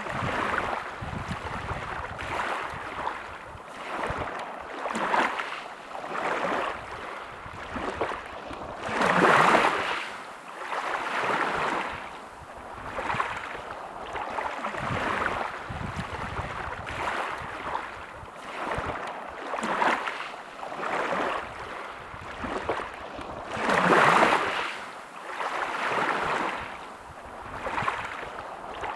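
Sea waves breaking and washing up a shore, a rhythmic rush of surf that swells and ebbs every second or two. Two bigger waves crash, about a third of the way in and again past three-quarters of the way through.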